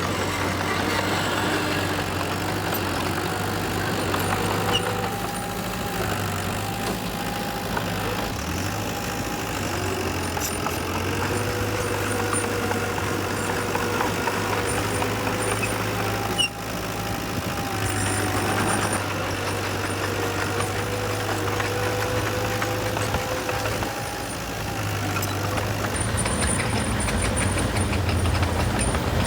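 Heavy diesel construction machinery running steadily, with a held whine whose pitch shifts slightly now and then.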